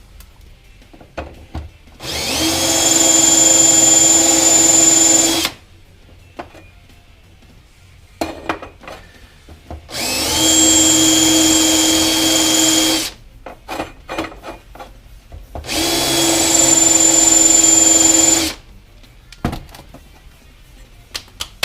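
A power drill runs in three bursts of about three seconds each, speeding up briefly at the start of each, as holes are drilled deeper. Small clicks and knocks of handling come between the bursts.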